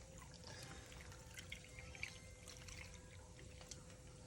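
Milk being poured into a pan of flour, pepper and salt to start country gravy: a faint trickle with small scattered ticks, over a faint steady hum.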